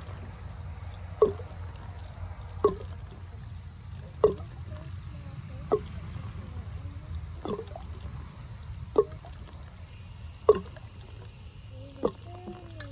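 Water dripping from an opened PVC water line, single drops falling at an even pace of about one every second and a half.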